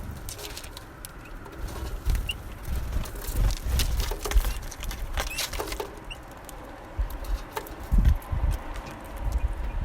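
Small songbirds feeding at a winter feeder: quick taps and clicks of pecking and landing, with a few short high calls and some low thumps, the loudest about eight seconds in.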